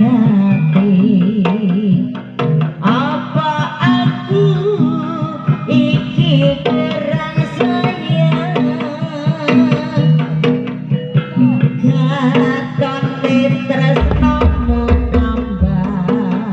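Jaranan music played continuously, with hand-drum patterns in the manner of a kendang under pitched melodic instruments. A deep low note sounds for about two seconds near the end.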